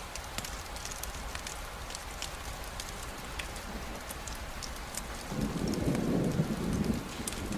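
Steady rain hiss with scattered sharp ticks of drops, and a low rumble of thunder that swells about two-thirds of the way in and lasts about a second and a half.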